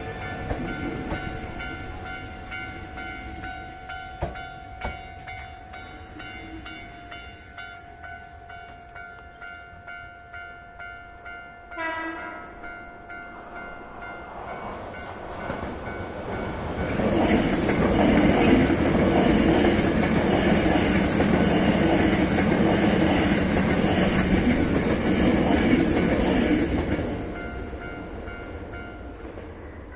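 Level-crossing warning bell ringing at an even beat, with a brief sharp tone about twelve seconds in. An electric commuter train then passes through the crossing loudly for about ten seconds before its noise fades away.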